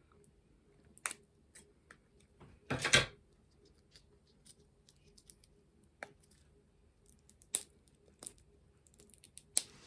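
Scissors snipping at a small candy packet to cut it open: scattered sharp clicks and snips, with a louder rustling burst about three seconds in.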